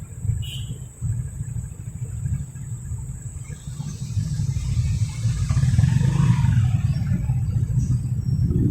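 Motorcycle riding in city traffic: a low rumble of engine and wind on the microphone, growing louder from about halfway through.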